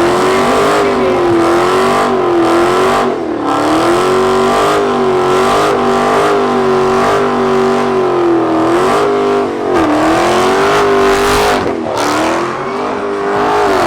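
A car engine held at high, near-constant revs, its pitch wobbling slightly up and down and dipping briefly twice.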